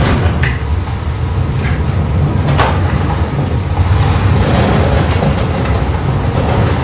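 A vehicle engine running steadily at low speed, with a few sharp metallic clanks and rattles over it.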